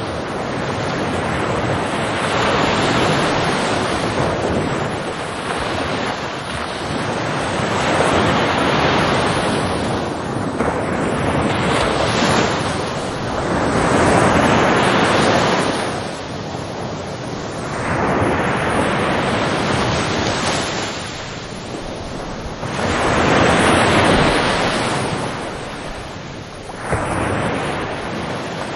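Ocean waves breaking and washing ashore, the surf swelling and falling back every four to five seconds.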